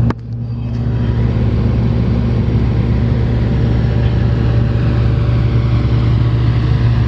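Komatsu PC450LC-8 excavator's diesel engine running steadily with a low, even hum.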